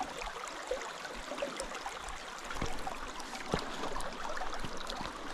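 Creek water flowing steadily over rocks, with a couple of brief knocks partway through.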